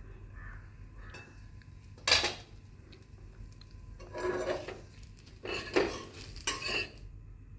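Cooking utensils scraping and knocking against cookware four times in short strokes, the first the sharpest, over a faint steady background hum.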